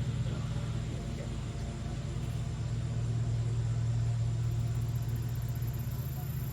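A steady low mechanical drone, like a motor running without change.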